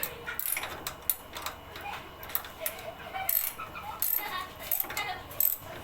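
Irregular metallic clicks and clinks of tools and engine parts being handled during a motorcycle top overhaul.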